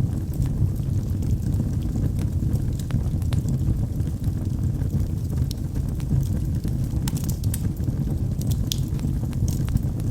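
Wood fire burning in a fireplace: a steady low rumble of the flames with frequent small, sharp crackles and pops from the logs, a cluster of them about seven to nine seconds in.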